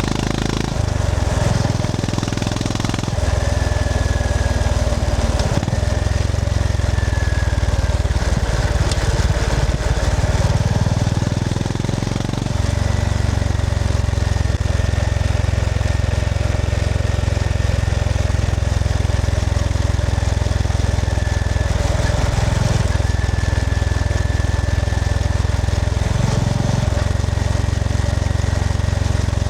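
Honda GB350S's air-cooled single-cylinder engine running under way, its low throbbing note shifting several times as the pace and gears change, over a steady rushing noise of riding.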